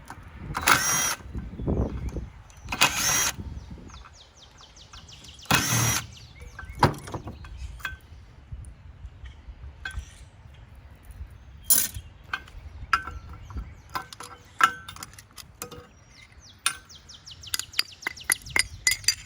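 A handheld power drill run in short bursts of about half a second, four times, while fittings are being taken off scrap water-heater parts. Between and after the bursts come many sharp metallic clicks and knocks of parts and tools being handled.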